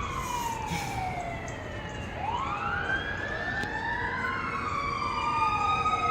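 Several outdoor tornado warning sirens wailing at once. Their pitches slowly rise and fall and overlap one another.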